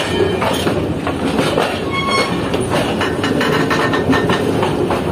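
Freight train rolling on the rails, heard from the guard van: a steady loud rumble with clicks from the wheels over the track, and a brief squeal about two seconds in.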